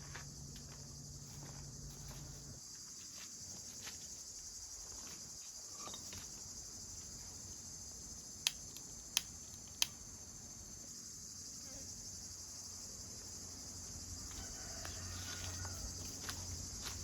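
Steady high chirring of crickets. Three sharp clicks stand out midway, about two-thirds of a second apart.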